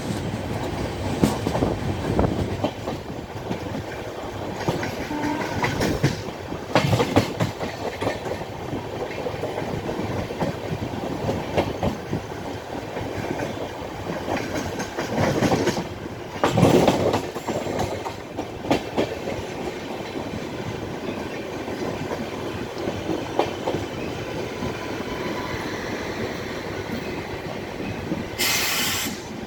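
Passenger express train's coaches rolling past as it pulls into a station, wheels clattering over the rail joints. Louder bursts of clanking come every few seconds, and there is a brief high hiss or squeal near the end.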